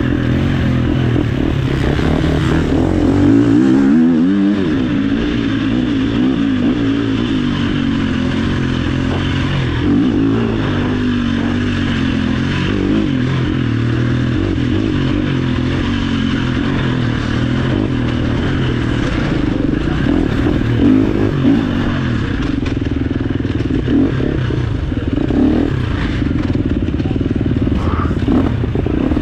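Off-road motorcycle engine running hard throughout, its pitch rising and falling as the rider works the throttle and gears, with clatter and scraping from the bike over rough ground.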